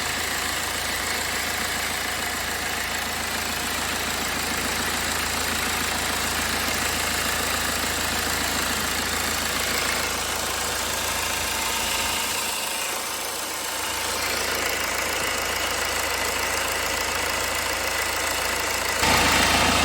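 2009 BMW 320d's four-cylinder diesel engine idling steadily, running smoothly now that its misfire has gone. The sound dips briefly about two-thirds of the way through.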